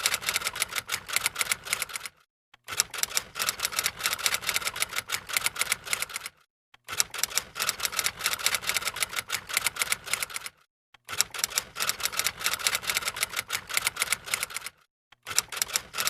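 Rapid typewriter-like key clicks in four runs of about four seconds each, broken by short, dead-silent gaps.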